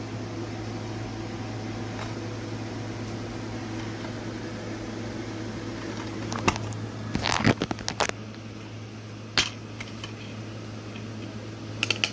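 Steady low electrical hum with fan-like noise, broken by a few sharp clicks and short scraping handling sounds in the second half, with a cluster of clicks at the end.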